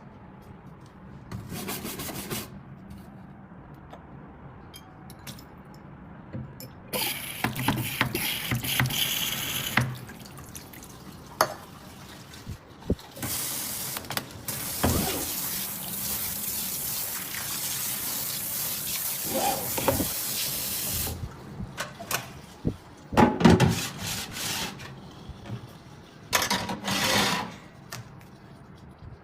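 Water from a kitchen tap running into a stainless-steel sink in several spells, the longest a steady run of about eight seconds in the middle. Short clicks and knocks come between the spells.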